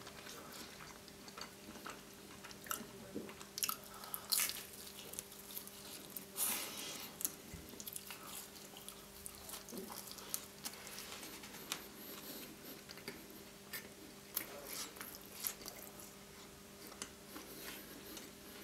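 Close-up chewing and biting of a thin-crust dessert pizza slice topped with white chocolate, strawberries and marshmallow: soft mouth sounds with scattered small crackles and clicks, the clearest about four and six seconds in.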